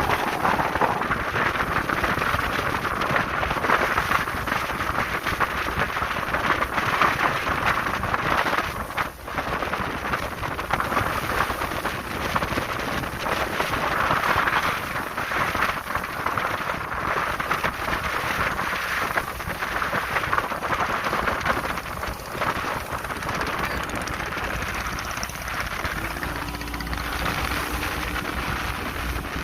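A speedboat running at speed: wind rushing over the microphone and water rushing past the hull, a steady loud noise with a brief dip about nine seconds in. A faint steady engine tone comes through near the end.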